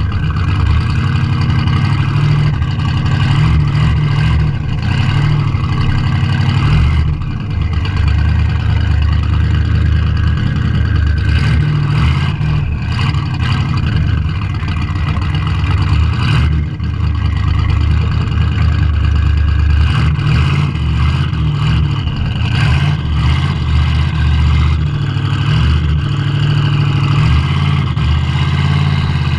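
A classic car's engine running hard on a hill climb run, loud and steady, with brief drops in level about 7 and 16 seconds in.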